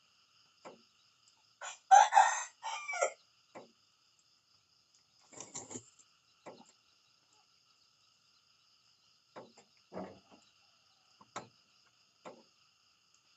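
A rooster crows once, a crow of about a second and a half in several linked syllables, about two seconds in. A shorter, fainter call follows a few seconds later, with scattered small clicks and knocks over a faint steady high trill.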